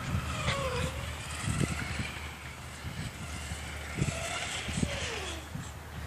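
A 1/10 scale RC car's motor whining, its pitch sliding up and down as it speeds up and slows, with a few short knocks scattered through.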